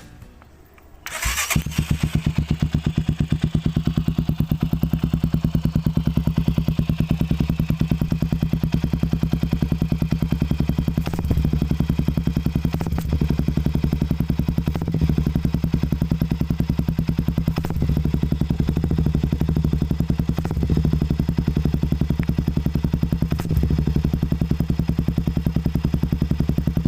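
Motorstar Cafe Racer 400 motorcycle running through an aftermarket BR Bullet exhaust pipe, coming in suddenly about a second in and then idling steadily with a fast, even bassy exhaust beat.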